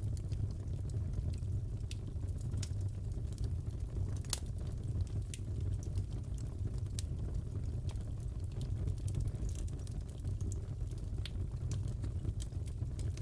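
Fireplace fire crackling over a steady low rumble, with irregular sharp pops, one louder about four seconds in.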